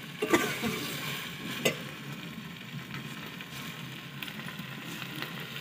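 Chopped okra sizzling in an aluminium pot over a wood fire. A steel ladle knocks against the pot a couple of times in the first two seconds.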